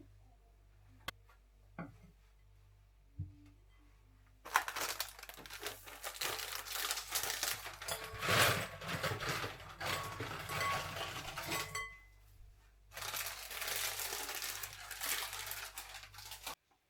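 Packaging crinkling and crackling as it is handled, in two long stretches with a short pause between, after a few light clicks.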